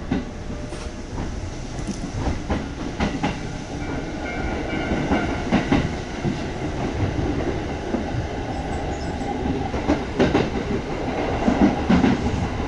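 Kintetsu 1200-series electric train running, heard from inside the passenger car: a steady low rumble with irregular clicks of the wheels over the rails, growing slowly louder as the train picks up speed after leaving a station.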